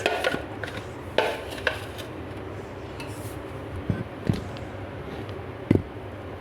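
Scattered light knocks and clicks of kitchen utensils and dishes handled on a counter, about half a dozen in all, over a steady low hum.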